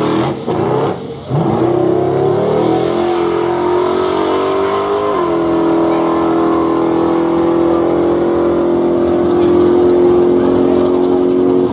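Drag-race car launching off the line and accelerating down the strip at full throttle. The engine note climbs for a few seconds, drops sharply at a gear change about five seconds in, then holds high.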